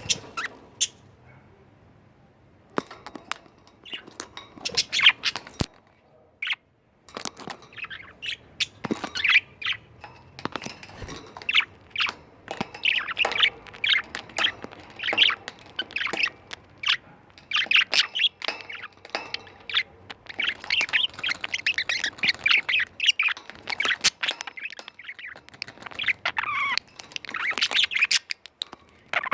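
Budgerigars chattering and warbling: rapid chirps, squawks and twittering calls from a small group, building up and growing busier after the first few seconds.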